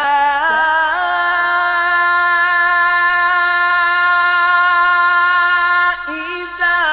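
A single voice chanting Quran recitation in melodic tajweed style, stretching the long vowel of 'hattā' on one steady held pitch for about five seconds after an ornamented rise. Near the end the voice drops lower and quieter in a short wavering turn, then climbs back up.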